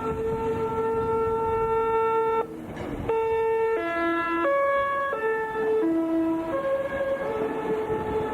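Meitetsu train's musical horn playing its melody, a warning on the road-and-rail bridge. It holds one note for about two and a half seconds, breaks off briefly, then steps through a run of shorter notes up and down.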